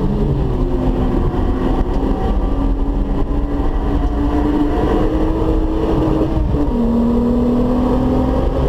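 Volkswagen Golf 3 VR6's six-cylinder engine pulling under load, its pitch climbing slowly, then dropping sharply with an upshift about three-quarters of the way through. A steady low rumble of road noise runs underneath.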